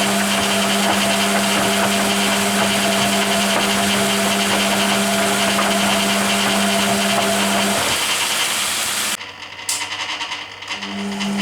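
Hoover Keymatic A3112 washing machine in its rinse, the drum motor running with a steady hum while the drum tumbles. About eight seconds in the motor stops, a single click follows, and near the end the motor starts again for the next tumble.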